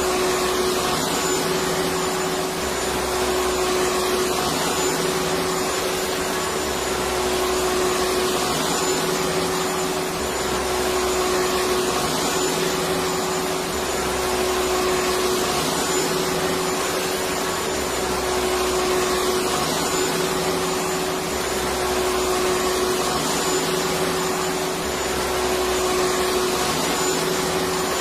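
Electric vacuum cleaner running continuously: a steady whooshing motor noise with a constant hum-like tone, and a low rumble that swells and fades about every two and a half seconds.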